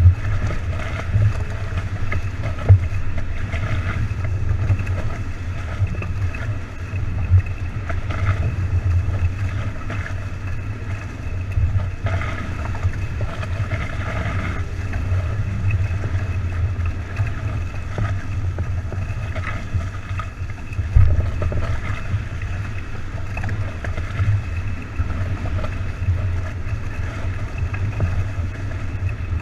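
A boat moving fast over the water: a steady rush of wind and water with a heavy low rumble and a few sharper peaks, such as near the start, around 7 seconds and around 21 seconds.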